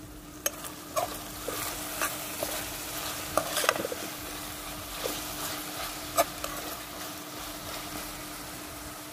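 Saltfish and seasoning sizzling as they fry in hot oil in a pot, with a stirring utensil knocking and scraping against the pot several times in the first six seconds or so.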